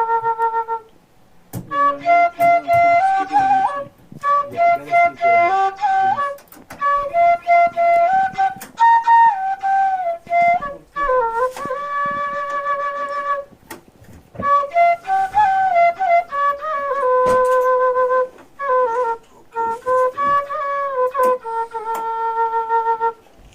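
Background music: a flute playing a melody in phrases with short pauses between them, some notes sliding from one pitch to the next.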